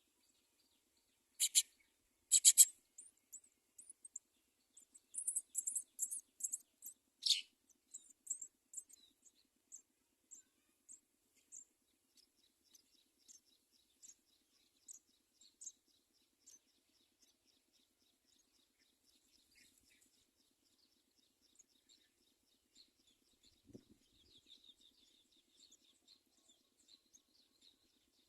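House sparrow chirping: two loud, high chirps, then a quick run of chirps, thinning out to scattered faint chirps and soft twittering near the end.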